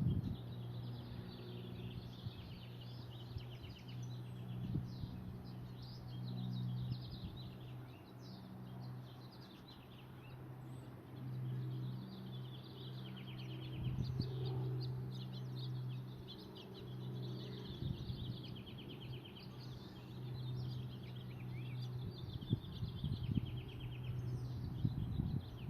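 Songbirds chirping and trilling throughout, several calls overlapping, over a steady low hum.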